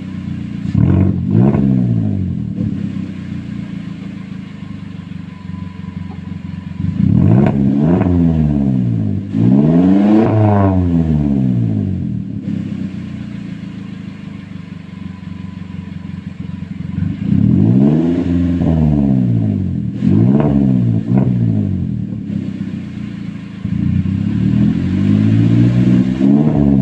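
Suzuki Carry pickup's four-cylinder engine through a racing muffler, revved repeatedly: the exhaust note rises and falls about six times, with two quick blips at the start and longer pulls later, settling back to a low idle between.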